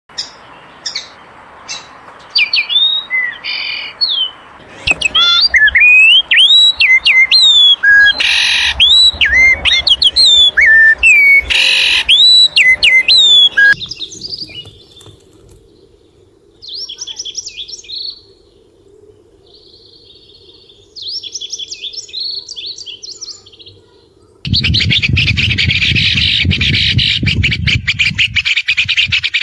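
Songbirds singing. First comes a run of loud, clear whistled notes with upswept hooks. After an abrupt change there are softer chirping phrases, and near the end a dense, fast chattering song over a low rumble.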